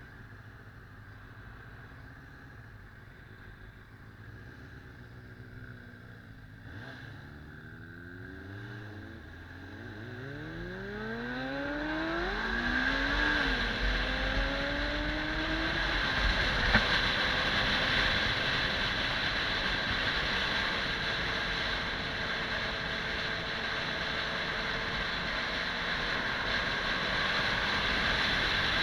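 Kawasaki 400 cc motorcycle engine running low and steady, then pulling away about six seconds in. It accelerates through the gears, its pitch rising and dropping at each change, several times. Wind noise grows as speed builds.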